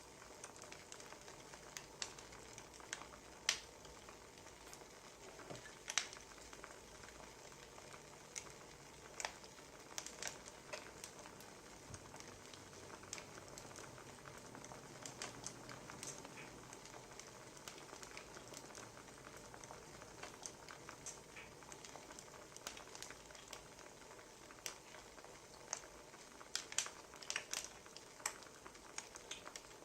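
Wood fire crackling, with irregular sharp pops over a soft steady hiss and a busier run of pops near the end.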